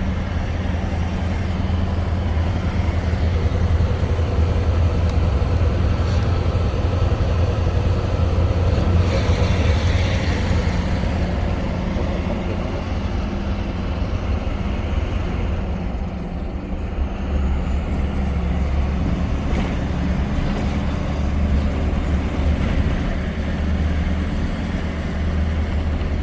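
Scania R560 V8 diesel truck engine, remapped to 690 hp, pulling under heavy load up a long climb, a steady low drone. The drone dips briefly about two-thirds of the way through, then resumes.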